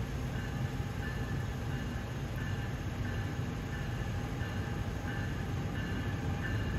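Steady low rumble of an approaching NJ Transit train, growing louder near the end, with a faint high tone repeating nearly twice a second.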